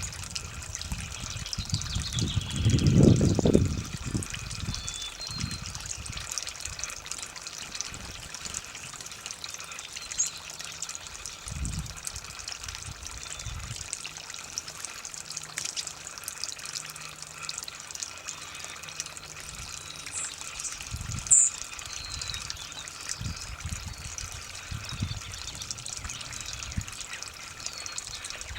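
Water from a garden hose running steadily and trickling onto the ground around a tree, with a brief low rumble about three seconds in.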